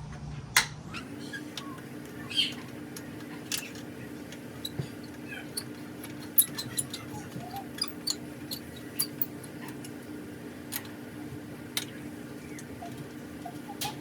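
Irregular metallic clicks and taps of hand tools on the motorcycle's rear brake lever and its bolt, over a steady low hum that starts about a second in. Faint squeaks come near the end.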